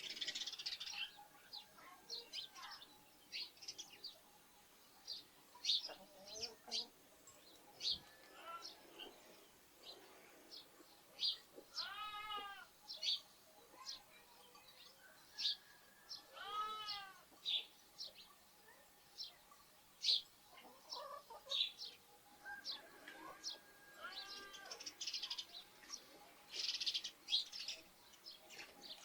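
Sparrows chirping in quick short notes throughout, with a lamb bleating twice in the middle, each bleat about a second long.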